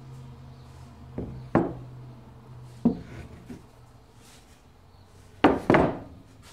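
Pieces of wood knocking together: a handful of sharp knocks, the loudest two close together near the end, over a faint low hum that fades out about three seconds in.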